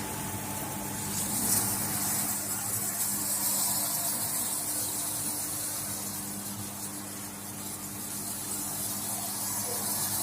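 Hansgrohe Axor PowderRain overhead shower running: a steady, even hiss of fine spray, with a low steady hum underneath.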